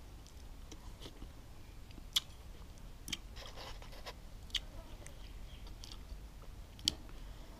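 Close-up chewing of a spicy pounded makhao mao salad, soft wet crunching and smacking. Three sharp clicks about two seconds apart stand out.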